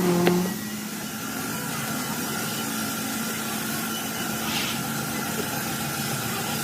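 A motor running steadily with an even hum. There is a short hiss about four and a half seconds in.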